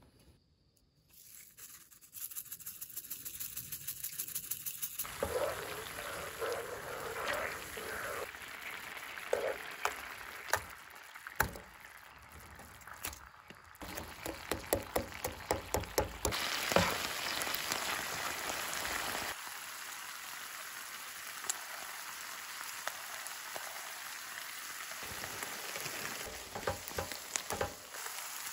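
Steak bites frying in a pan on a camp stove: a steady sizzle with frequent sharp clicks and pops and the scrape of stirring. The sizzle changes in strength abruptly several times.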